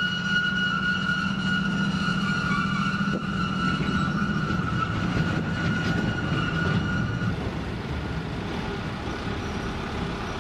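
Train moving along a street: a steady low rumble with a sustained high-pitched squeal or whine over it, which stops about seven seconds in.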